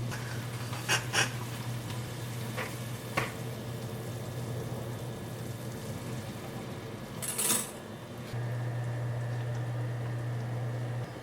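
Kitchen cooking sounds: a steady low electrical hum that cuts out for about two seconds midway and then comes back, with a few sharp clinks of kitchenware. The loudest clink comes about seven seconds in.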